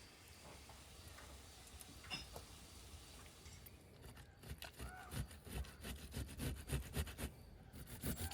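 Faint rhythmic scraping strokes, several a second, starting about four seconds in, after a few scattered light clicks; the sound of food being worked by hand during cooking.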